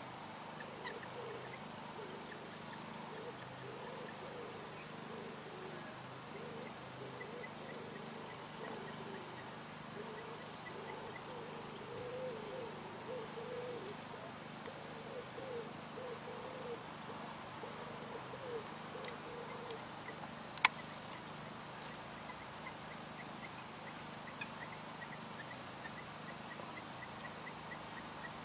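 Low bird calls in quick runs of short notes, thickest in the middle, over faint high ticking, with one sharp click about twenty seconds in.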